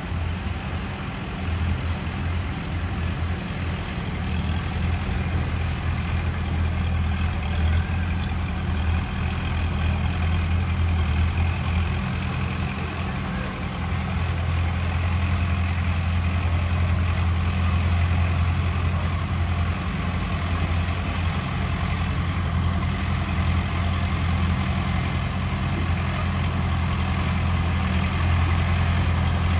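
Heavy diesel engine of earthmoving machinery running steadily with a deep, unbroken drone.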